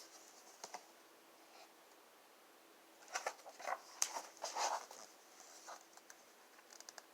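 A page of a picture book being turned: faint paper rustling with small clicks, strongest about three to five seconds in.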